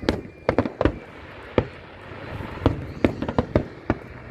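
Fireworks and firecrackers going off: about a dozen sharp bangs at irregular intervals, bunched near the start and again around three seconds in.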